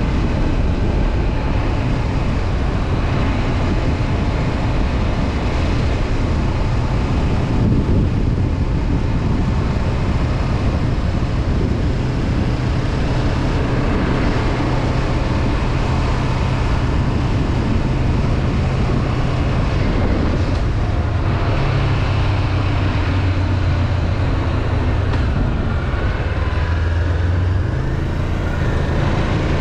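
Honda CB500F parallel-twin engine running as the motorcycle rides along, over a steady rush of wind and road noise. The engine note shifts about two-thirds of the way in and again near the end.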